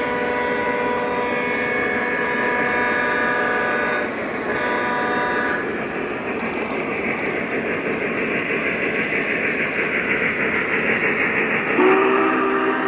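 O gauge model trains running, their onboard sound sounding a long signal blast and then a shorter one, followed by steady rattling running noise; a second, lower-pitched signal blast starts near the end.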